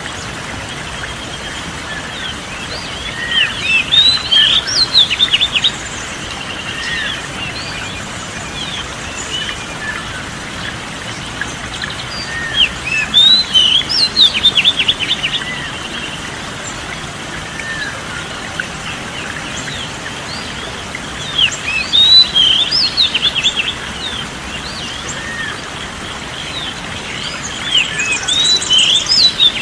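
Oriental magpie-robin (kacer) song: four bursts of quick, varied whistled phrases, about eight or nine seconds apart, over a steady background hiss.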